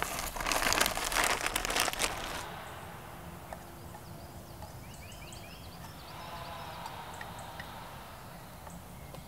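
Rustling and crunching handling noise for about two seconds, then quiet outdoor ambience with a few short bird chirps.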